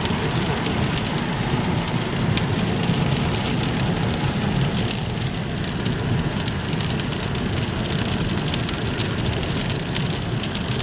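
Hard rain falling on a car, heard as a steady hiss with many separate drop ticks, over the car's low, steady road noise.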